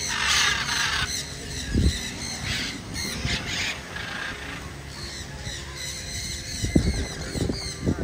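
Birds giving harsh, screechy squawks: a loud one at the start, then several shorter bursts over the next few seconds. Low thumps come in near the end.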